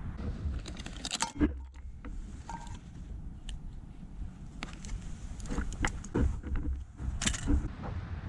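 Small hard objects clinking and clattering as they are handled, in scattered bursts, over a steady low rumble.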